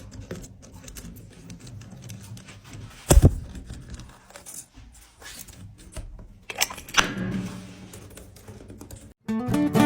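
Scattered light clicks and taps, with one louder thump about three seconds in. Guitar music starts near the end.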